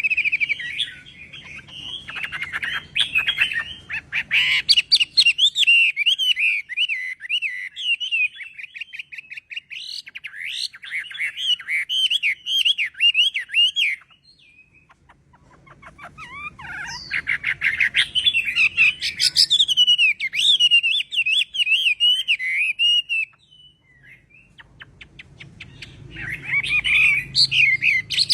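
Chinese hwamei singing: long bouts of rapid, varied warbling and whistled phrases, broken by two short pauses, one near the middle and one about three-quarters through.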